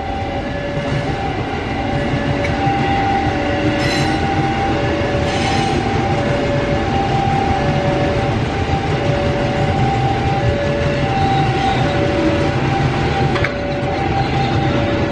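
Electric commuter trains running past on the rails with a steady rumble. Over it, a level-crossing warning alarm sounds two tones, high and low, taking turns about every half second.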